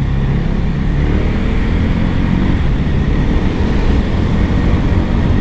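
Wind buffeting a clip-on lavalier microphone on a moving motorcycle, a steady heavy rumble, with the KTM Duke 250's single-cylinder engine running underneath.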